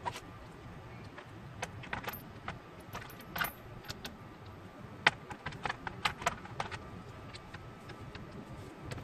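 Light metallic clinks and taps of hand tools and loose engine parts being handled, scattered irregularly through the stretch on a low steady background.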